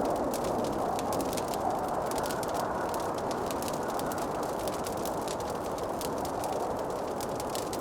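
Wood fire crackling in a fireplace: frequent small sharp pops and snaps over a steady low rushing hiss.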